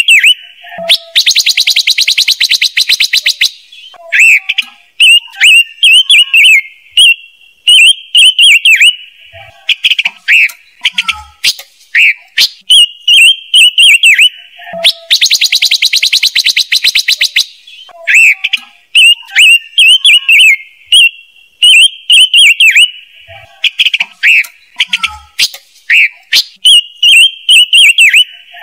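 Looped recording of a songbird's lure calls: a fast, buzzy rattling trill lasting about two seconds, then a run of short whistled chirps that dip in pitch. The same sequence comes around again about every 14 seconds, played as a trap-speaker lure.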